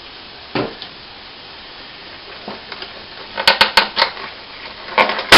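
Packaging being handled during an unboxing. A dull thump comes about half a second in, then two bursts of sharp clicks and rattles in the second half.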